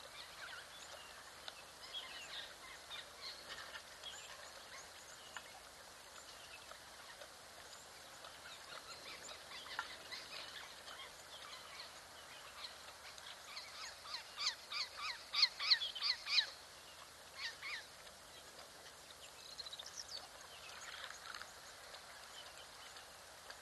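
Wild birds calling: scattered short chirps throughout, with a run of loud, rapid, repeated calls, about four a second, building up about two-thirds of the way through.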